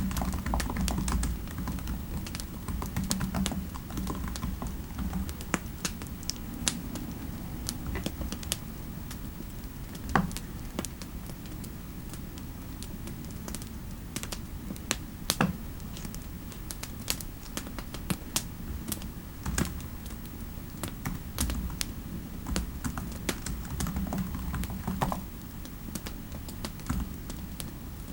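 Typing on a computer keyboard: irregular key clicks, some louder strokes among them, over a steady low background.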